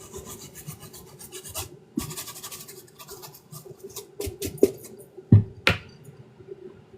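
Brush scrubbing a sneaker in quick, rapid strokes, in two spells, followed by a few light clicks and then two loud knocks about five and a half seconds in.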